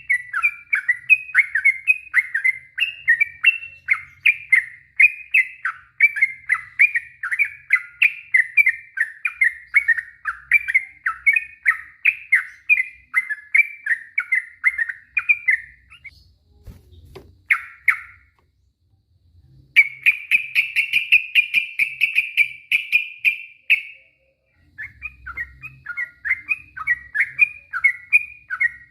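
Sooty-headed bulbul (trucuk) singing a long run of quick, repeated phrases, about two a second. It breaks off about 16 seconds in. After a short pause it gives a fast trill for about four seconds, then goes back to the repeated phrases near the end.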